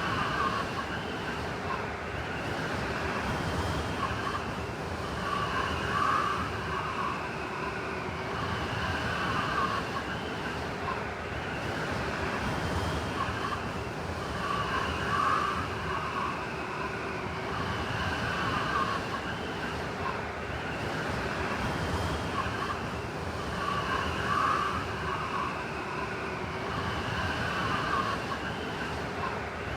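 Blizzard wind blowing steadily, with a whistling tone that rises and falls as it gusts every few seconds.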